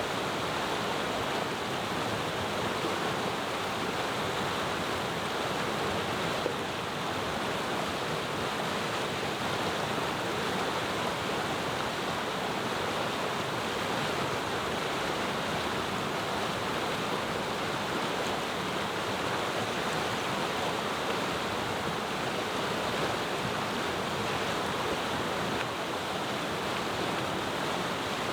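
Mountain river running: a steady, even rushing of flowing water.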